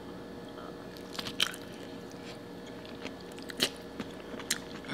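A person chewing a mouthful of soft food, potato topped with crab meat and sauce, close to the microphone. The chewing is quiet, with a few short, wet mouth clicks and smacks.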